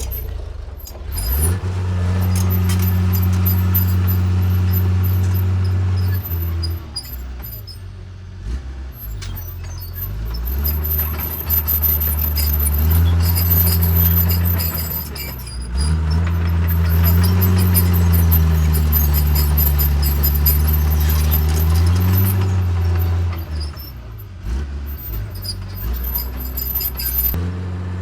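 Heavy earthmoving diesel engine running under changing load, its pitch dropping and climbing again several times as the machine works, with scattered clanks and clicks on top.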